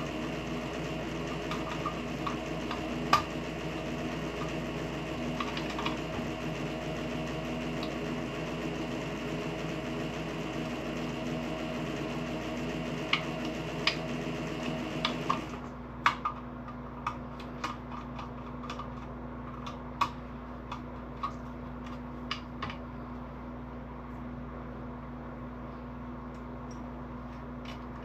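A steady mechanical hum with several tones cuts off suddenly about halfway through, leaving a fainter steady hum. Light clicks and taps, typical of handling small parts and wires, come scattered throughout and cluster around and after the cutoff.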